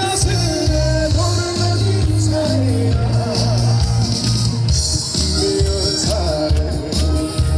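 Live trot song played through a stage PA: band accompaniment with a steady bass beat under a male lead vocal.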